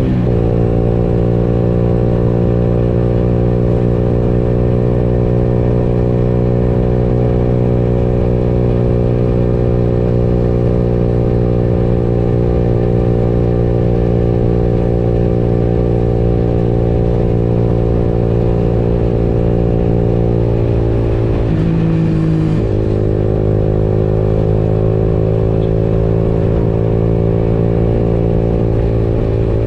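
Motorcycle engine running steadily while riding, its pitch dipping briefly about two-thirds of the way through, then rising again as it picks up.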